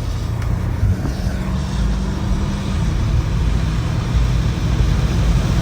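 Cabin noise of a BMW M5 Competition cruising in the rain: a steady low drone from its twin-turbo V8 and drivetrain under an even hiss of tyres on a wet road.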